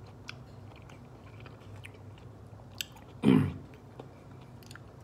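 A man chewing a mouthful of fresh green beans, with faint crunching and mouth clicks. About three seconds in comes a brief, loud throaty vocal sound that drops in pitch.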